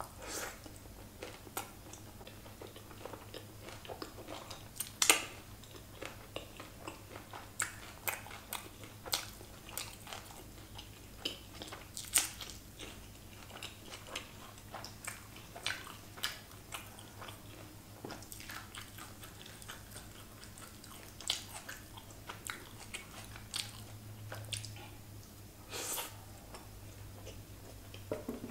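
Close-miked chewing of a mouthful of kadhai paneer with capsicum: a steady run of short, wet mouth clicks and smacks, the loudest about five seconds in.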